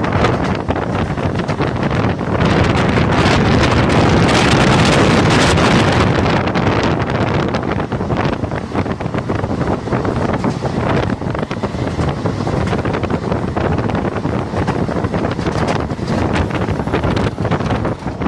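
Wind rushing over the microphone together with the running noise of a moving passenger train, loudest for a few seconds about two seconds in.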